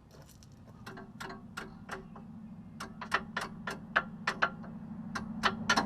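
Ratchet wrench clicking in a steady rhythm, about three clicks a second and getting louder, as a seized sway bar end-link nut is worked loose. A low steady hum runs underneath and grows towards the end.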